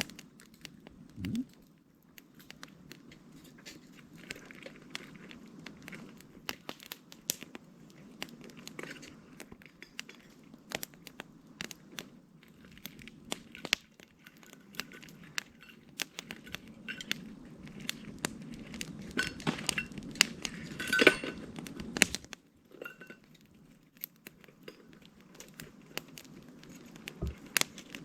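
Wood campfire crackling, with frequent sharp pops over a low steady rush of flame. The fire grows louder and busier about twenty seconds in, then settles again.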